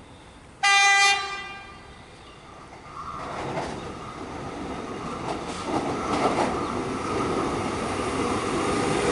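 Suburban electric train sounds one short horn blast, then approaches and runs through the station at speed. The sound grows steadily louder with wheel rumble, clatter and a steady high whine.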